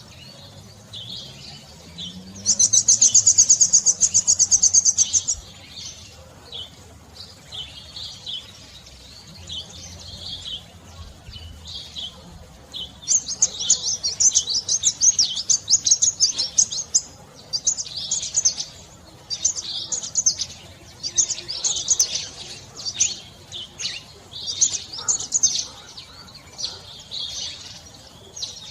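Small songbird chirping at high pitch: a fast, loud trill a few seconds in, then scattered chirps, and from about halfway on a long run of quick repeated chirps.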